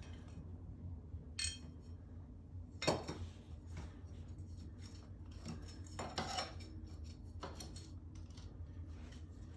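Scattered metallic clinks and taps of small metal hardware such as bolts and tools being handled, a few separate knocks with the loudest about three seconds in, over a steady low hum.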